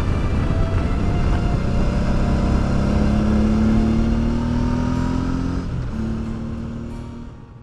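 Honda Deauville V-twin motorcycle engine running under way, heavy with wind rush, its pitch rising steadily as it accelerates, then dropping at a gear change about six seconds in. The sound fades out near the end.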